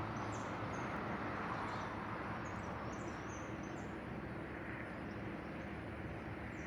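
Short, faint, high bird chirps scattered over a steady outdoor background noise.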